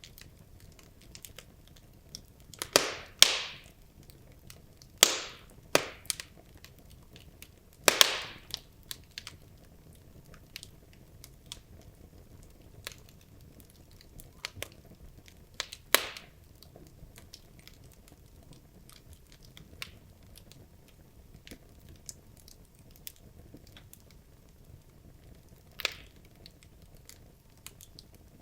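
Wood logs burning in a fireplace: a faint steady hiss with frequent small crackles and a handful of louder sharp pops, a cluster of them in the first nine seconds, another around sixteen seconds and one near the end.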